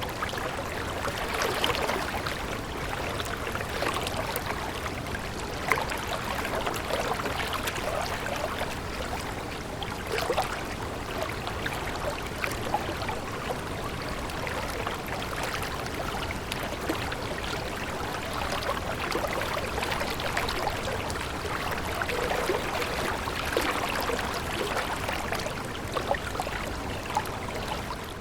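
Running water of a small stream, flowing steadily with many small splashes.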